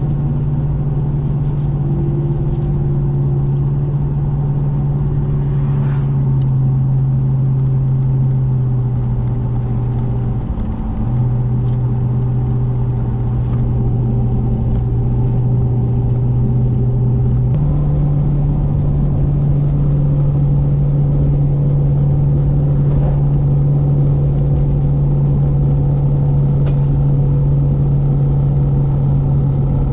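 Plow truck driving at highway speed: a steady engine drone with road noise. Its pitch shifts down a little a few seconds in and back up about two-thirds of the way through.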